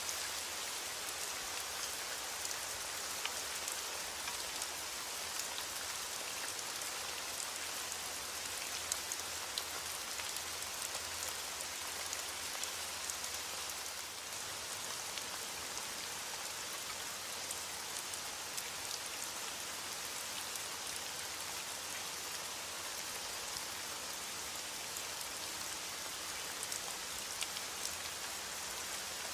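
Heavy rain falling steadily: a dense, even hiss with scattered sharp ticks.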